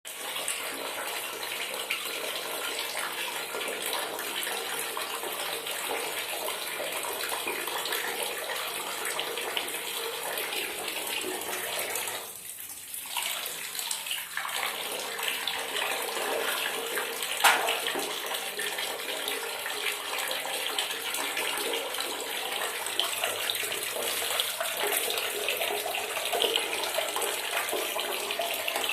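Water running steadily from a tap and splashing, easing off for a couple of seconds a little before the middle, with one sharp knock about two-thirds of the way through.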